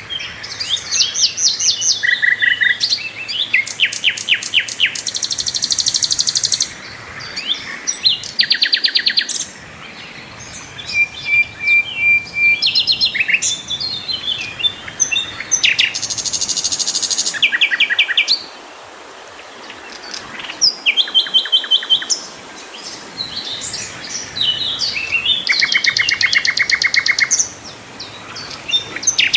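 Sikatan londo flycatcher singing loudly and continuously: high, rapid trills and fast-repeated chirping notes strung into long phrases, broken by a few short pauses.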